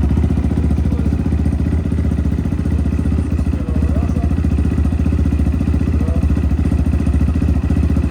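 Fuel-injected NC182MN engine of a new Moto Apollo M6 300 EFI dirt bike idling steadily on its first start after assembly.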